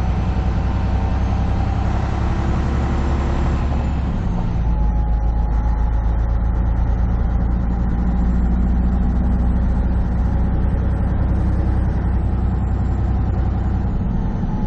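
Semi truck's engine droning steadily, heard inside the cab while driving at highway speed, with road noise. About four seconds in, the higher hiss falls away and the low drone deepens.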